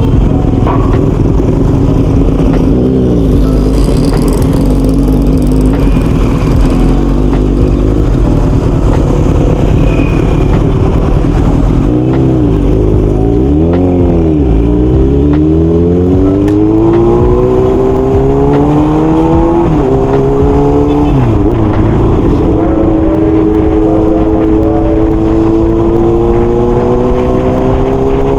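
Kawasaki Z800 inline-four engine under way. It runs steadily at first, then the revs dip and rise twice about halfway through. After that it accelerates with a rising pitch, drops at a gear change about three-quarters of the way in, and climbs again.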